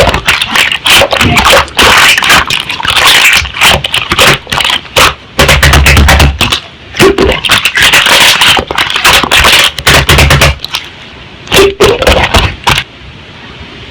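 Slime being squeezed and pressed by hand, giving a fast, irregular run of loud clicks, pops and crackles. The popping thins out and stops about a second before the end.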